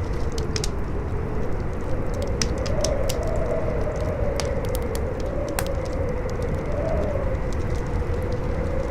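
Campfire crackling with sharp irregular pops, over strong howling wind whose whistling pitch wavers up and down and a low steady rumble.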